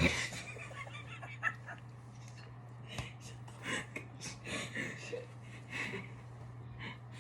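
Breathy, near-silent laughter in short bursts of giggles and gasps, over a steady low hum.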